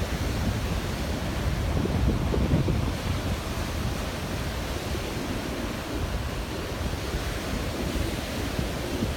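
Steady wash of ocean surf, with wind buffeting the microphone in a low, gusty rumble.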